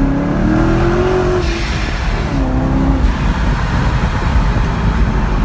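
Corvette Stingray's 6.2-litre LT1 V8 being revved. The pitch holds high for about a second and a half and drops, comes up again in a shorter blip, then settles back to a low rumble.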